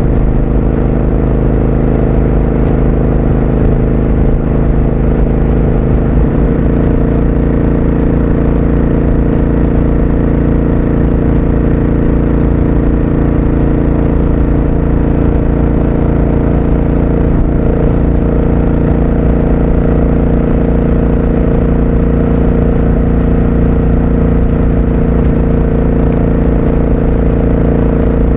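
Triumph Speed Twin 1200's parallel-twin engine running under way at a steady pace, heard raw from the bike. Its note shifts to a new steady pitch about six seconds in.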